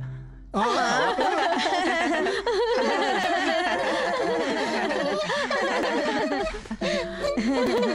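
Cartoon myna bird singing in a fast, warbling, chattering voice, starting about half a second in. A few steady musical notes come in near the end.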